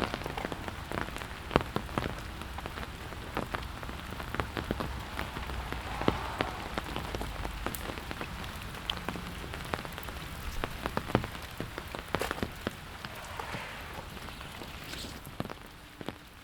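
Steady rain falling, with many separate sharp drop impacts landing close by. The sound fades down near the end.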